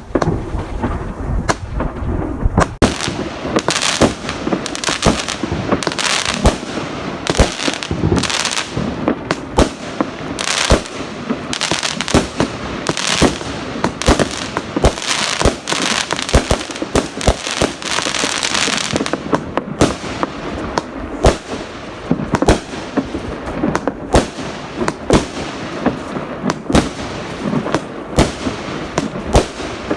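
Fireworks and firecrackers going off without pause, a dense run of sharp bangs several times a second over continuous crackling, with an especially thick stretch of crackle a little past the middle.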